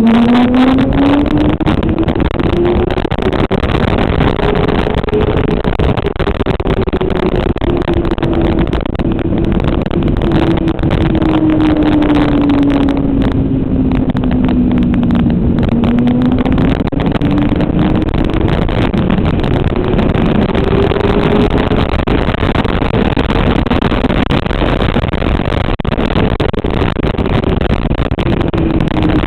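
Motorcycle engine running at track speed under steady wind rush. Its note climbs in the first second, then rises and falls slowly as the throttle and speed change.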